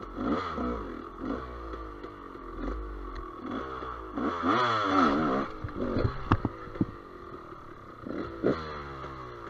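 GasGas EC200 two-stroke enduro motorcycle engine revving up and down in repeated bursts, loudest a little before the middle. A few sharp knocks and clatter follow just after.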